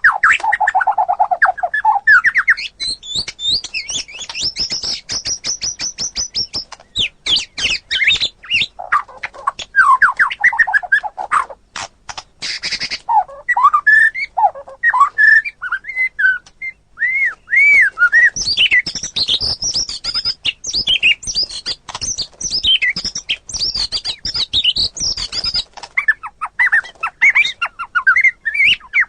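White-rumped shama (murai batu) singing a long, varied song of loud sweeping whistles, fast high trills and rapid ticking, chattering notes, with only brief pauses.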